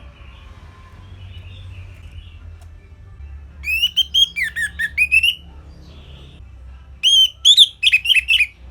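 Orange-headed thrush singing two short phrases of clear whistled notes that slide up and down, the first about three and a half seconds in and the second about seven seconds in, over a low steady hum.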